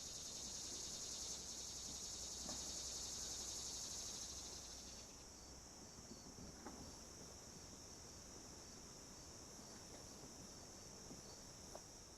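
Crickets or similar insects trilling steadily in a high, continuous drone, louder for the first five seconds and then fainter, with a few faint chirps repeating evenly over it.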